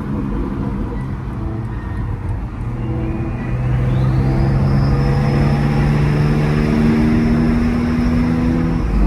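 Car engine accelerating, its pitch rising for about a second and a half a few seconds in, then holding steady at cruising speed, with a thin high whine rising and holding with it.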